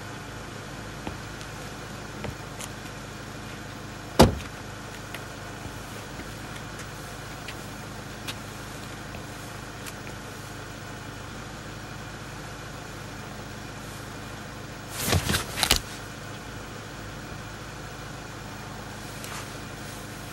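Car engine idling steadily, with a single sharp knock about four seconds in and a quick run of three or four sharp knocks about three-quarters of the way through.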